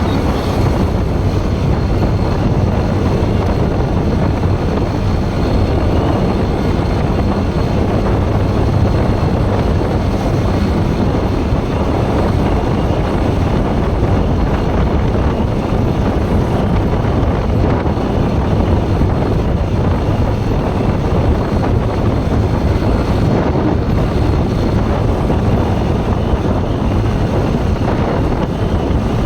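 Steady rush of wind on the microphone over the running engine of a Bajaj Pulsar NS160, a single-cylinder motorcycle, while it is being ridden at an even pace.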